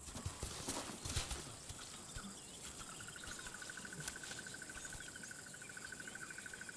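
African bush ambience. A few soft knocks and rustles come in the first second or so, with faint bird chirps. From about three seconds in, a steady, rapidly pulsing trill of a calling insect or frog runs on.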